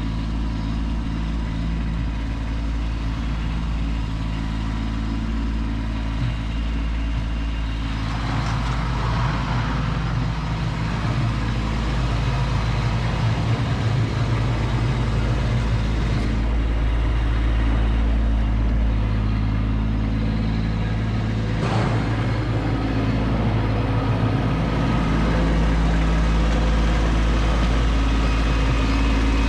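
Kubota B2601 compact tractor's three-cylinder diesel engine running steadily while it works, its note shifting with a noisier stretch about eight seconds in and a brief sharp sound a little past twenty seconds, getting slightly louder toward the end.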